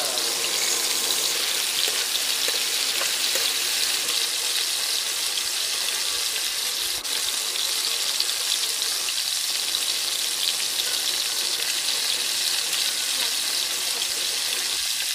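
Chicken gizzards frying in oil in a pan, a steady sizzling hiss, with occasional stirring.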